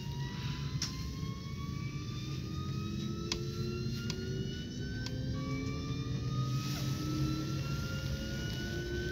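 Electric train running and picking up speed, heard from on board: its motor whine rises slowly in pitch in steps over a steady low rumble, with a few sharp clicks from the track.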